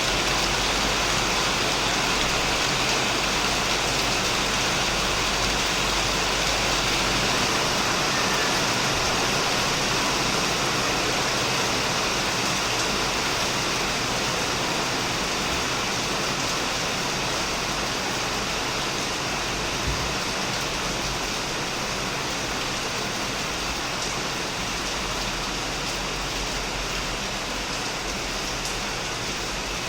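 Heavy rain falling steadily on a shed, a dense even wash of drops that eases slightly over the second half.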